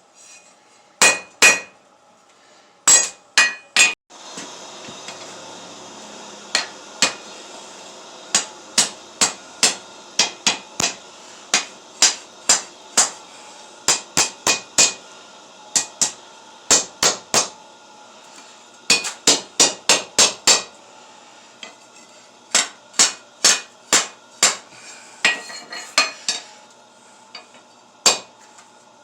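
Hand hammer striking steel on an anvil, ringing blows in runs of about two to three a second with short pauses between runs, forging a table leg by hand. A steady rushing noise runs underneath from about four seconds in.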